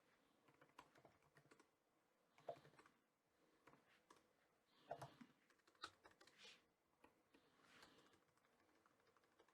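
Faint typing on a computer keyboard: irregular keystrokes, a few bunched together.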